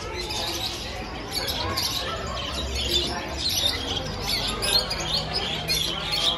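Budgerigars chirping and chattering, a quick run of short high chirps.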